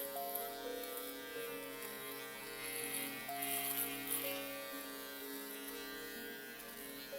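A steady buzzing drone made of many sustained tones. Its lower notes step to new pitches every second or so, which makes it sound like droning music.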